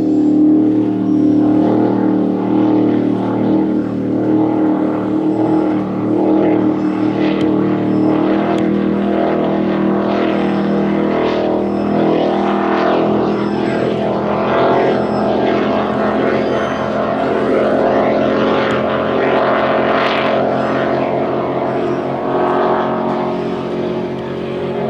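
Fountain powerboat's engines running steadily with a deep, even drone, the pitch shifting a little about halfway through.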